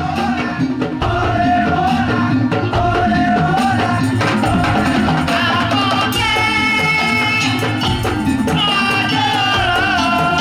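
Madurese daul (tong-tong) percussion music played live: a dense, driving beat with a held, wavering melody line over it.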